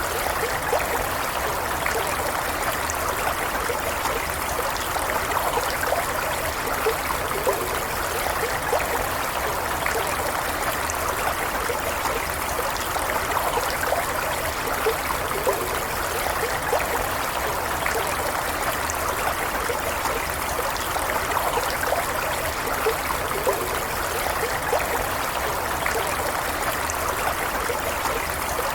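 Stream water running and trickling steadily, with small splashing and gurgling flickers over an even rush.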